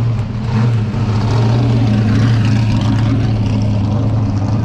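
V8 engine of a historic muscle car running at a steady, unchanging pitch, loud and continuous.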